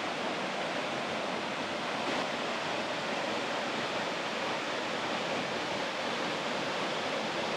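Toraille Waterfall: a steady, even rush of falling water.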